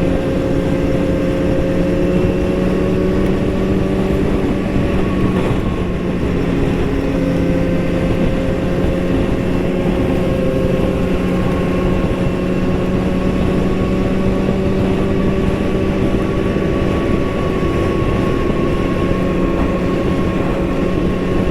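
Motorcycle engine running at a steady highway cruise under the rider, its hum holding an almost constant pitch over rushing wind and road noise.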